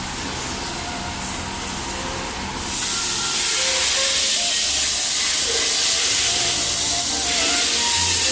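A steady hiss that gets markedly louder about three seconds in and then holds.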